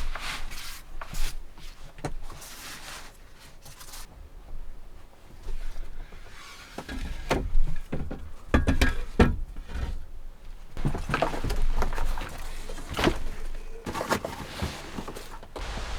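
Irregular knocks, thuds and scraping, as of wood and objects being handled. There is a quieter stretch a few seconds in, and heavier thumps in the second half.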